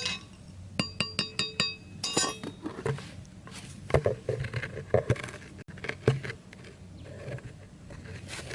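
A hammer tapping in a nail, five quick ringing strikes about a second in, followed by irregular duller knocks and clatter of wood being handled.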